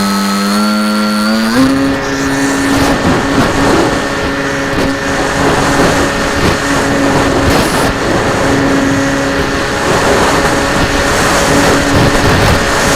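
RC plane's motor and propeller running, stepping up in pitch and jumping to a higher steady note about a second and a half in as the throttle opens, then holding a steady drone under rushing air noise.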